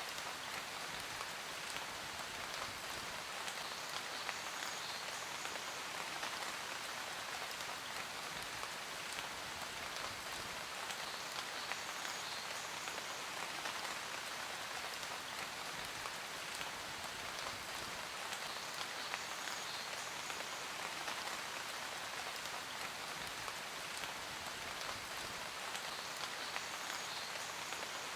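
Steady rain falling, a dense even patter of countless drops that keeps up without let-up.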